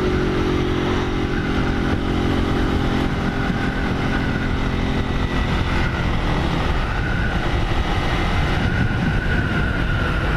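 Honda 160 single-cylinder motorcycle engine running at road speed, heard from the rider's position with wind rushing past. The steady engine note fades about halfway through as the bike slows.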